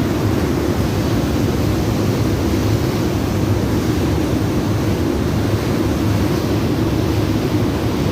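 The two jet engines of the PELNI fast ferry KFC Jetliner running steadily under way, a loud, unbroken, low-pitched noise.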